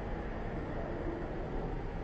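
Steady low rumbling noise, with no distinct strokes or pitch.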